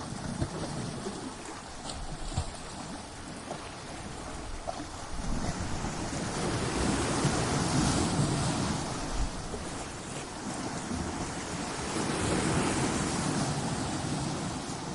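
Ocean waves breaking against coastal rocks: a continuous rushing wash of surf that swells twice, about five seconds in and again about twelve seconds in, with some wind.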